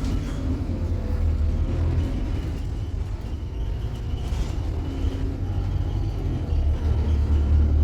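Scania K280UB city bus on the move, heard from inside: a steady low rumble of the engine and running gear that grows louder about three quarters of the way through.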